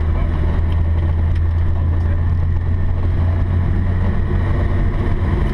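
Volvo 240's engine droning steadily at an even speed, heard inside the cabin, with tyre noise from the gravel road underneath.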